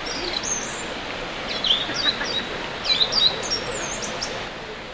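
Birds chirping and calling in quick, sharp notes, with a cluster of calls about a second and a half in and another near three seconds, over a steady rushing background noise.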